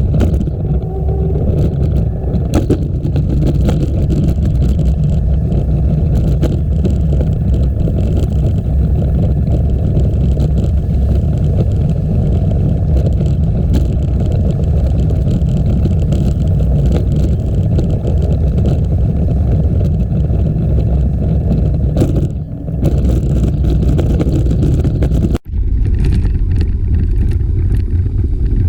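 Wind buffeting the microphone of a camera on a moving bicycle: a loud, steady, low rumble. Near the end it cuts out for an instant and comes back duller.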